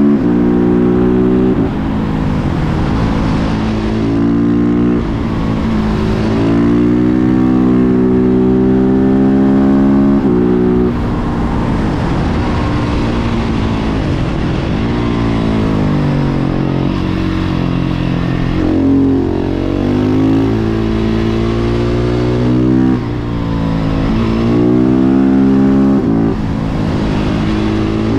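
Husqvarna 701 Supermoto's single-cylinder engine through a Remus Blackhawk exhaust, ridden through the gears: the pitch climbs under throttle, drops sharply at each shift or throttle-off, and climbs again several times.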